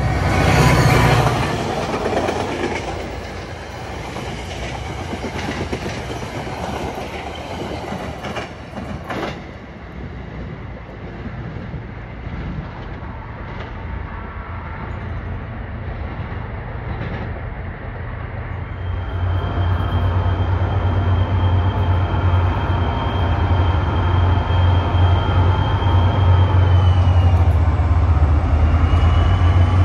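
Metro-North F40PH-3C diesel locomotive passing close by, its engine and wheels loud for a second or two before the noise falls away to rail clatter. About two-thirds of the way through, a diesel locomotive's heavy low engine rumble builds as another train approaches the platform. With the rumble comes a steady high squeal that dips briefly near the end.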